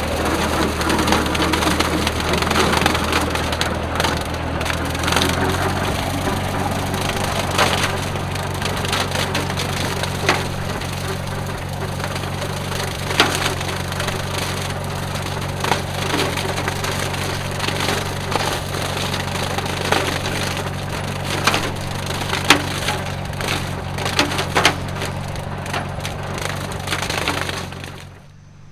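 Tractor engine running steadily while a bush hog rotary cutter chops through dry stalks, a dense crackle of snapping and splintering stalks over the engine's drone. The sound drops away abruptly just before the end.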